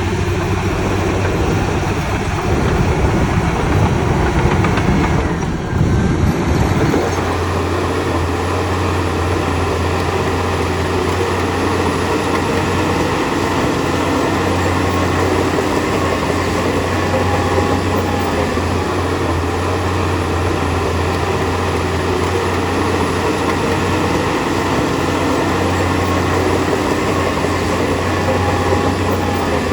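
Heavy diesel earthmoving machinery running steadily at the work site, a low engine drone with a rattling, clanking running noise; the sound shifts briefly about six seconds in.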